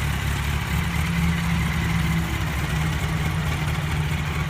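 2005 Yamaha YZF-R1's inline-four engine idling steadily on its stock exhaust.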